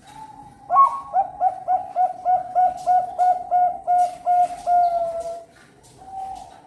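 Zebra dove (perkutut bangkok) singing its cooing song: an opening note, then a quick run of about a dozen short coos, about three a second, ending on a longer falling note, with one more coo near the end.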